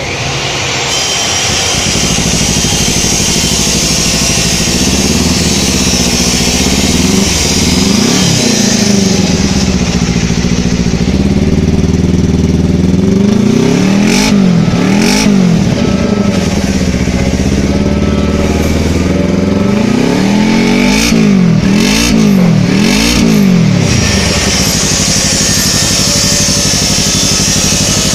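Kawasaki Ninja 250 parallel-twin engine through a custom stainless-silencer exhaust, idling and revved in short throttle blips, several in quick succession near the middle and again later before settling back to idle. The note is bassy and soft rather than tinny.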